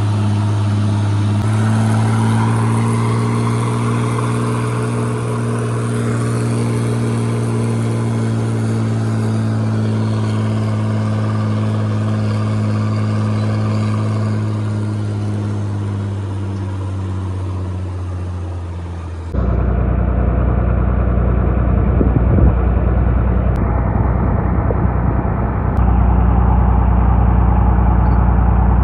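Farm machinery engine running steadily under load, its pitch sagging slowly. About two-thirds of the way through it cuts abruptly to a louder, deeper engine rumble that steps up again near the end.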